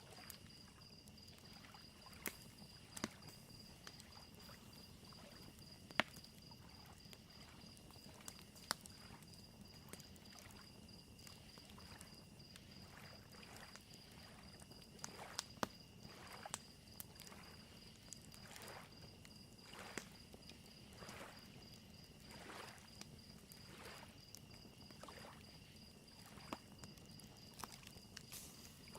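Faint evening ambience: crickets chirping in a steady high pulsing trill, with scattered sharp pops from a crackling campfire and small lake waves lapping softly against the shore.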